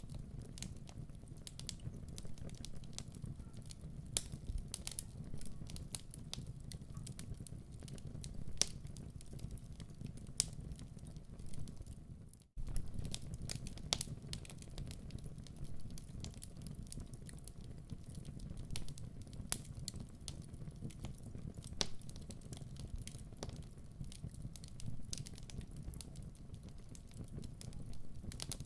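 Wood fire burning in a fireplace: irregular crackles and sharp pops over a steady low rumble. A brief gap in the sound comes about twelve seconds in.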